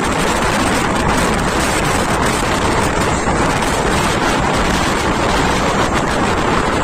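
Steady loud rush of wind on the microphone held out of a moving passenger train, with the train's running noise mixed in.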